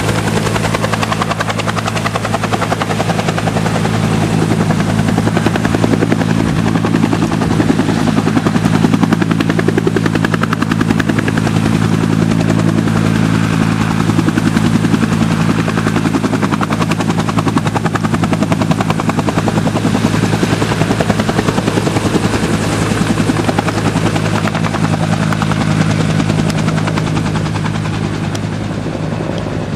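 Firefighting helicopter hovering close by as it fills its bambi bucket: a loud, steady rotor chop that eases slightly near the end.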